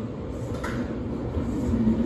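Kintetsu limited express train running through a station on the far tracks: a steady low rumble with a faint click, and a low hum coming in near the end.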